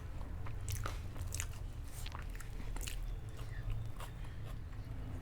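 Close-miked eating: chewing with a series of sharp, separate crunches of pizza and fries, about one every half second to a second, over a steady low hum.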